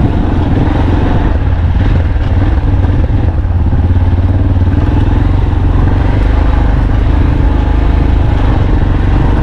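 Motor vehicle being driven: a steady, loud low engine drone with road noise.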